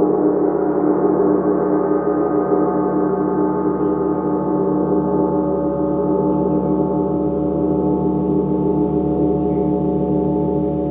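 A gong sounding in a sustained wash of many overlapping tones, with a slow pulsing shimmer and no distinct strikes, easing off slightly toward the end.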